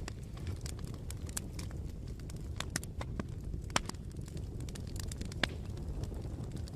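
Bonfire crackling: a steady low rumble of burning with irregular sharp pops and snaps of the wood, two of them louder about four and five and a half seconds in.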